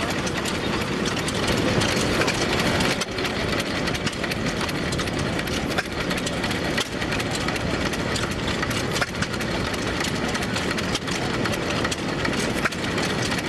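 Engines running steadily under a dense, even background noise, with scattered sharp clicks.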